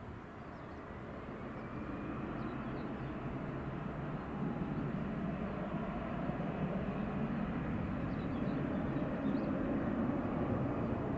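Distant rumble of a large vehicle growing steadily louder as it approaches, with a faint rising whine in the first few seconds.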